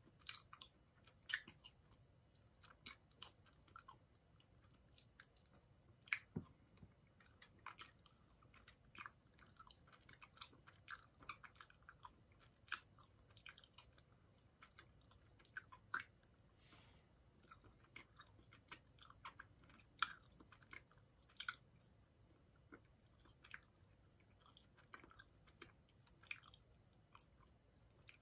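Faint chewing of chewy Mike and Ike fruit candies: soft, irregular mouth clicks and smacks.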